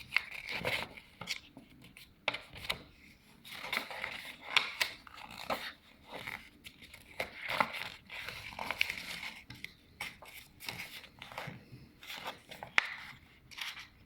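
Sheet of paper being folded and creased by hand: irregular crinkling and rustling with short sharp crackles as fingers press down the folds.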